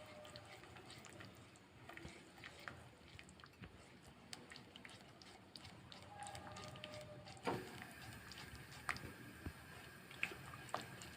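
Faint crackling of food cooking in a pan, scattered small pops, and a few sharp clicks, the loudest about two thirds of the way through.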